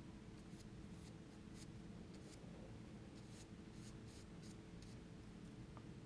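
Faint brushstrokes of a paintbrush on oil paper: a string of short, irregular scratchy strokes over a steady low room hum.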